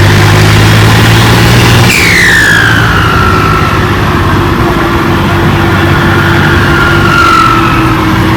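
Turbocharged diesel tractor engine running hard. About two seconds in the throttle eases, and the turbo's high whistle falls in pitch as it spools down. A fainter turbo whistle comes back near the end.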